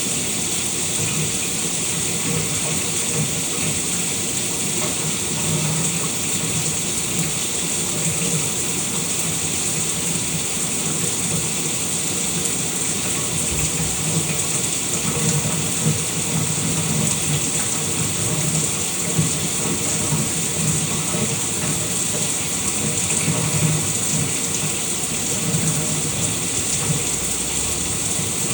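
Shower running: a steady hiss of water spraying and splashing, with an uneven low splashing underneath.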